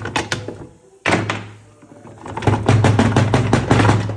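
Metal gearbox parts and tools knocking and clinking as the transmission is handled on the bench, with a quick run of loud clanks in the second half, over a steady low hum.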